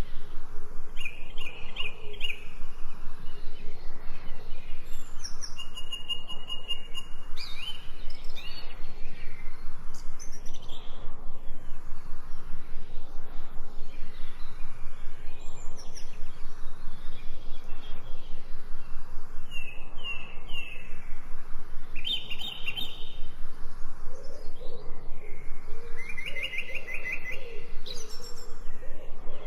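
Birds chirping and calling in short phrases of high, repeated notes, over a steady pulsing background of about three to four beats a second. A lower, cooing call repeats near the end.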